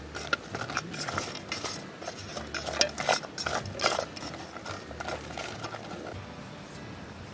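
Metal utensils clinking and scraping against cookware, as in stirring a pot or pan, with quick knocks for about four seconds before it goes quieter.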